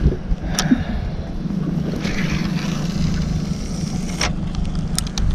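Boat motor running steadily with a low hum, with a few sharp clicks about half a second in, around four seconds in and near the end.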